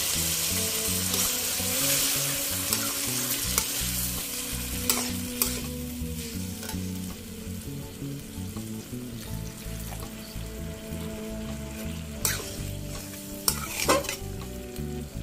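Mutton liver and potato curry sizzling in a kadai after a splash of water hits the hot oil and masala. The sizzle is loud at first and dies down over the first several seconds to a quieter simmer. Near the end a metal spatula stirs the curry, scraping and knocking against the pan a few times.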